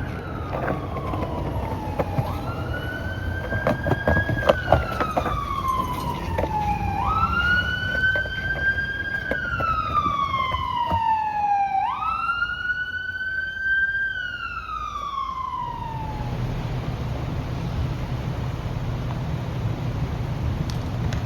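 Emergency vehicle siren wailing, rising and falling in slow sweeps every few seconds. It cuts off about three-quarters of the way through, leaving a steady low rumble.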